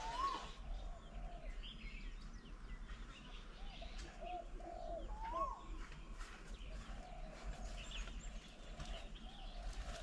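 Wild birds calling: a run of low, repeated cooing notes, two higher rising calls, one right at the start and one about five seconds in, and faint high chirps.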